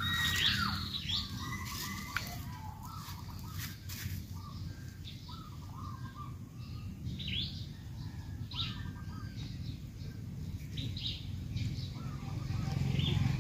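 Birds chirping: short, bending calls every second or two, over a low steady rumble.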